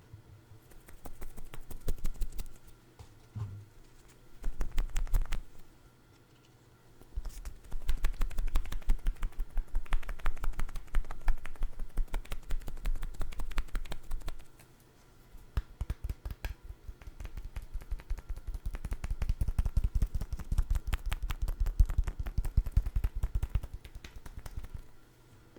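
Rapid light tapping and clicking on a food item, in several bursts with short pauses between, the longest lasting several seconds.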